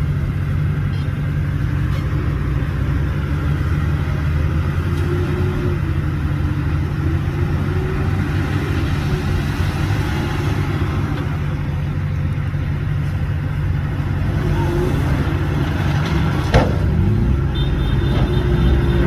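Heavy diesel engine of earthmoving machinery running steadily under work, a low drone with a faint wavering higher tone above it. A single sharp knock comes near the end, after which it grows slightly louder.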